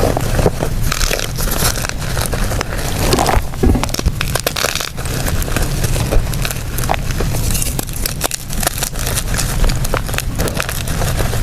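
Blocks of gym chalk being crumbled and crushed by hand, giving a steady run of dense, crunchy crackles.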